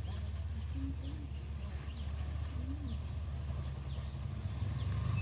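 Birds calling over a steady low rumble: a few short cooing calls, about a second and three seconds in, and faint high chirps.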